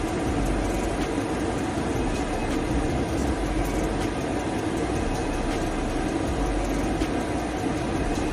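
Laser back-glass removal machine running steadily, a constant mechanical hum and hiss as it works over the iPhone's back glass to loosen the glue.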